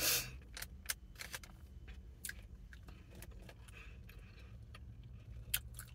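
Soft chewing of a toasted bagel with cream cheese, with scattered small clicks and a brief rustle at the start, over a low steady hum.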